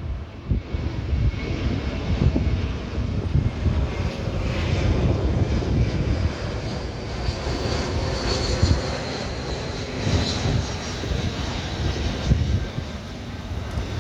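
Jet engines of an Airbus A321 flying past on its arrival: a steady jet rumble with a high whine that falls slightly in pitch about two-thirds of the way through.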